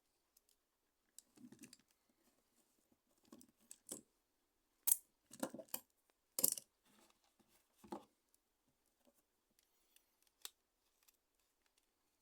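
Small clicks, taps and scrapes of a mobile phone and its parts being handled during a repair, with a few sharper clicks about five and six and a half seconds in.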